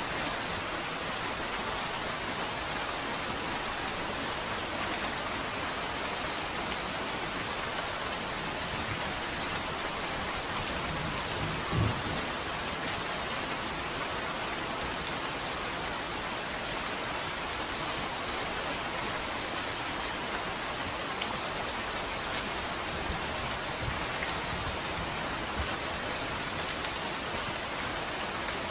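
Steady rain falling and pattering on surfaces, an even hiss throughout, with one brief low thump about twelve seconds in.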